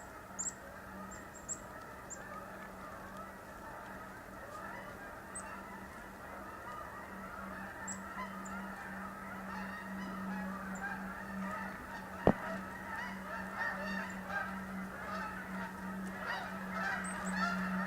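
A flock of geese honking continuously, many calls overlapping and growing louder over the last several seconds. One sharp click about twelve seconds in.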